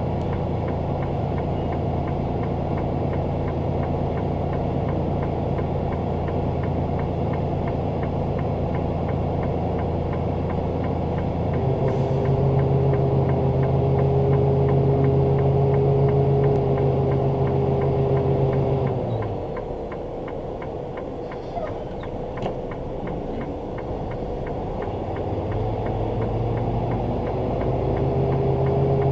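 Semi-truck diesel engine running at idle with a steady hum; the engine note steps up about a third of the way in, drops back about two-thirds in, and climbs again near the end.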